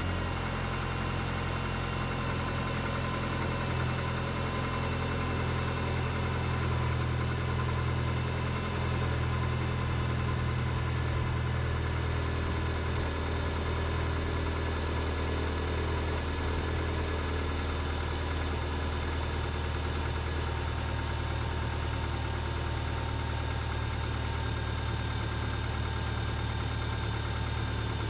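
Car engine idling steadily with the A/C compressor engaged while refrigerant is being charged. The engine note shifts slightly lower about twelve seconds in.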